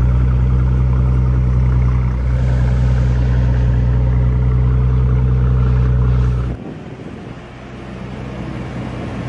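Mercedes-Benz S65 AMG's 6-liter twin-turbocharged V12 idling, a steady low drone that drops away abruptly about six and a half seconds in, leaving only a fainter rumble.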